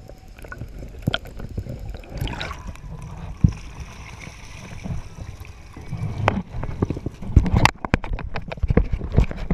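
Water sloshing and gurgling close to the microphone, with irregular knocks and bumps, thickest near the end.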